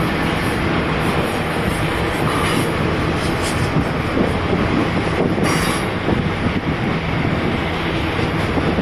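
Union Pacific double-stack intermodal freight train's cars rolling steadily past, with the continuous noise of wheels on rail. A brief high-pitched screech comes about five and a half seconds in.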